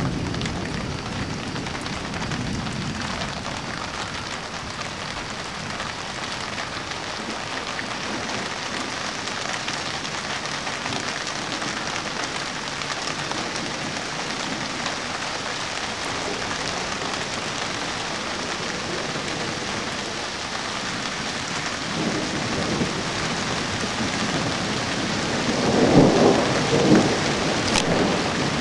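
Steady rain hissing down during a thunderstorm, with a roll of thunder building and peaking near the end.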